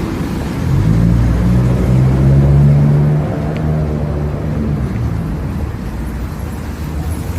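A motor vehicle's engine passing close by, growing louder about a second in and fading after about three seconds, over steady street traffic noise.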